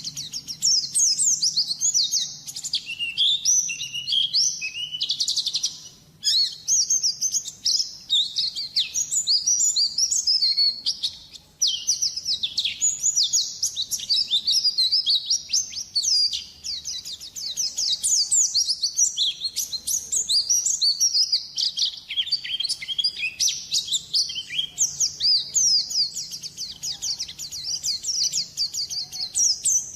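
White-eye (pleci) song: rapid, high twittering chirps and trills, nearly continuous, with two brief pauses about six and eleven seconds in.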